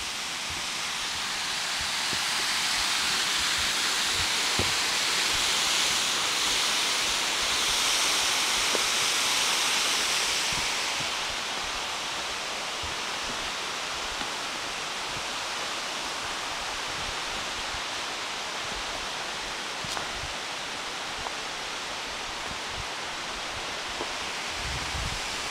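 Waterfall: a steady rush of falling water, louder for about the first ten seconds and then a little quieter and even.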